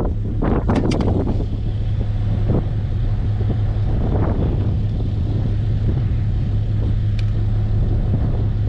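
A vehicle engine running steadily with a low hum, along with a few knocks and rattles in the first second or so.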